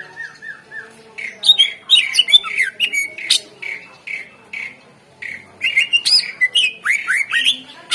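Cucak ijo (green leafbird) singing. It opens with four quick, repeated falling notes, then breaks into a fast, varied song of chirps, whistles and sharp rising and falling notes, with a brief pause midway.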